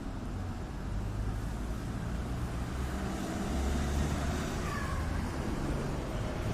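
Street traffic noise with a steady low rumble; a vehicle passes, growing louder from about three seconds in.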